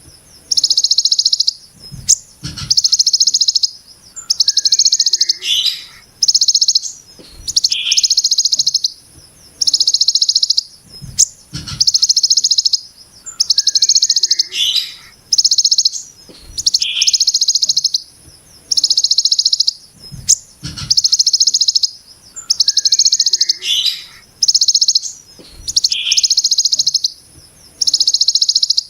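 Ciblek gunung giving its harsh, buzzy 'brem' call: high-pitched rattling bursts of about a second, repeated roughly every second and a half, with a few short falling chirps between them and occasional low thumps.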